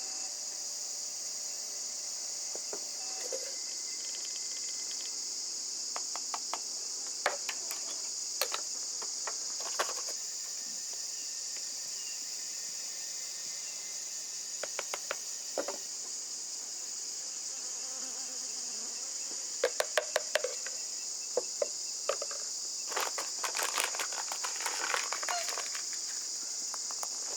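Steady, high-pitched chorus of insects in the bush, with scattered short clicks and knocks coming in small clusters.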